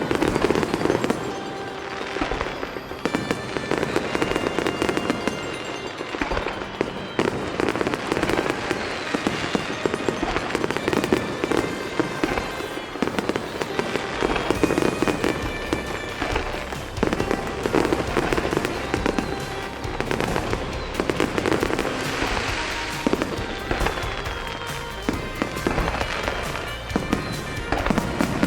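Aerial fireworks going off, many shell bursts and bangs in quick succession, over music played with the show.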